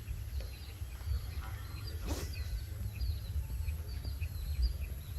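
Small birds chirping: many short, high chirps, several a second, over a steady low rumble. A single sharp click comes about two seconds in.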